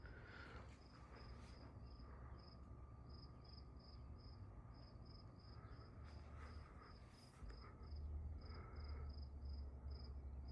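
A cricket chirping steadily, about three short high chirps a second, over the low rumble of a Quorum Pinwheel ceiling fan running on medium speed; the rumble grows a little louder past the middle.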